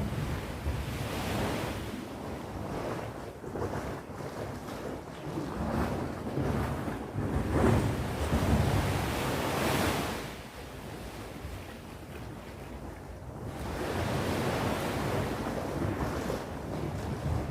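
Sea waves breaking and washing up the shore in surges that swell and fall back. The biggest wave comes in the middle, about eight to ten seconds in, followed by a quieter lull before the next wave builds.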